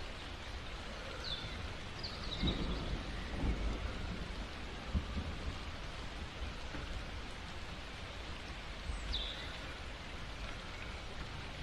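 Steady rain with low rumbles of thunder swelling a few seconds in and again about five seconds in.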